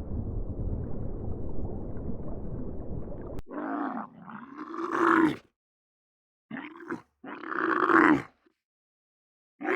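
A steady low rumbling noise that cuts off abruptly, followed by an animal's loud roaring calls: three or four pitched calls separated by silent gaps.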